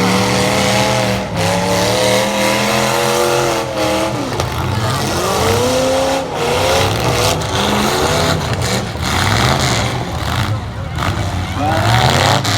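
Several demolition-derby light-truck engines revving, their pitch rising and falling, with sharp crashes scattered throughout as trucks collide.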